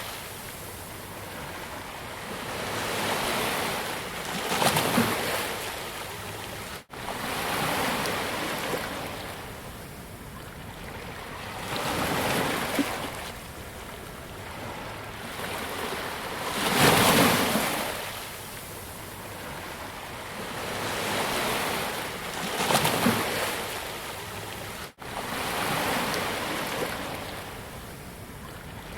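Ocean waves breaking and washing up on a beach, the surf swelling and ebbing every few seconds, with a couple of loud surges. Two momentary dropouts cut the sound briefly.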